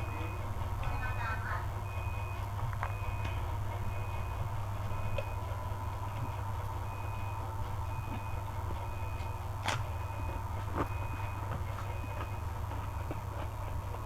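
A vehicle's reversing alarm beeps about once a second over a steady low hum. A sharp click comes about ten seconds in.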